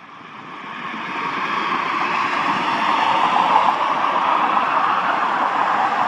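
Jet engine noise from a Southwest Boeing 737 rolling out on the runway after landing. It is a steady rushing noise that swells over the first two seconds or so and then holds.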